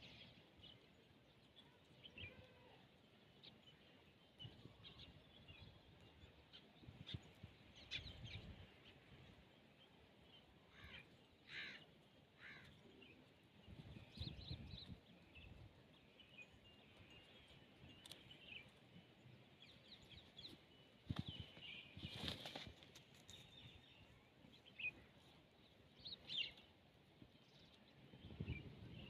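Faint, scattered bird chirps and calls over quiet outdoor background noise, with a few soft low thuds or rustles.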